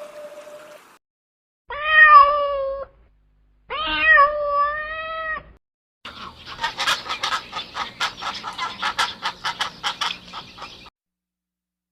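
Cat meowing twice, two drawn-out meows about two seconds apart, followed by about five seconds of a rapid, pulsing animal call at roughly four to five pulses a second.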